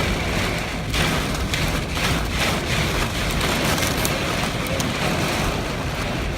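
Heavy wind-driven rain beating on a moving car, heard from inside the cabin: a dense steady hiss with many sharp drop hits over a low rumble.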